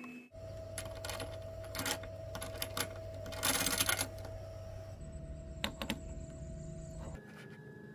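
Educational diesel engine model running on its small motor: a steady hum and whine with rapid mechanical clicking and clattering of its moving parts, louder for a moment near the middle. The sound changes abruptly a few times.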